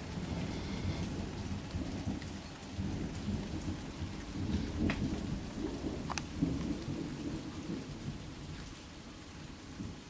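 Thunder rumbling low and long over steady falling rain, with a few sharp drip ticks, the rumble easing off near the end.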